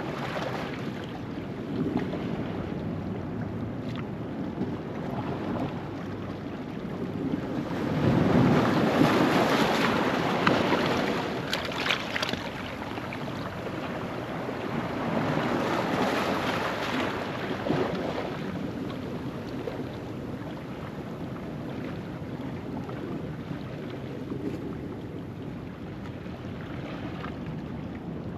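Ocean waves washing over a rocky shoreline at low tide, a steady wash of surf that swells louder as a bigger wave comes in about eight seconds in and again around fifteen seconds in.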